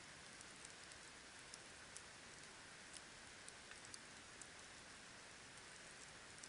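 Wood campfire burning quietly: a faint steady hiss with scattered small crackles and pops, irregular and a few each second.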